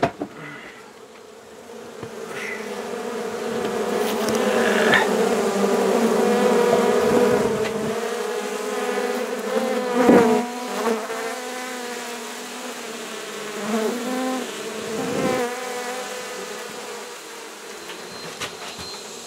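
Honey bee colony buzzing, a steady hum that swells over several seconds and then eases, its pitch dipping briefly a couple of times.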